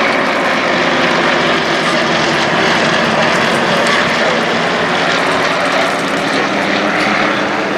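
Yak piston-engined trainer aircraft flying a close formation pass, their propeller engines giving a loud, steady drone throughout.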